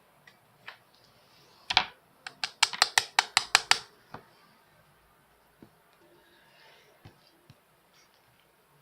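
Typing on a keyboard: one louder key click, then a quick run of about eight keystrokes, followed by a few faint taps.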